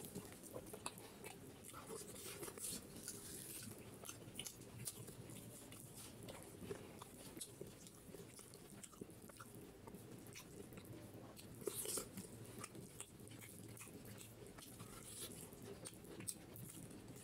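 Close-up eating sounds of a man chewing beef head curry, with many small wet clicks as he picks meat from the bone with his fingers. One louder bite about twelve seconds in.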